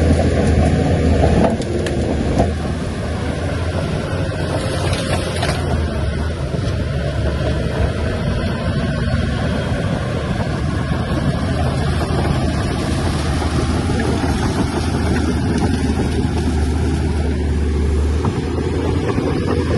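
A heavy diesel engine on earthmoving machinery runs steadily with a deep, low drone, and there are a couple of sharp knocks about two seconds in.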